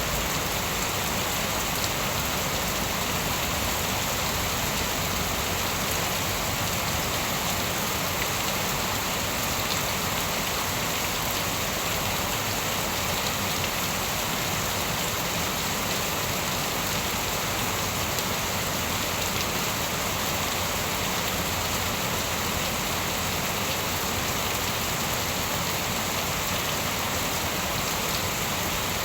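Steady rain falling and pattering on surfaces, even and unbroken, with no thunder clap.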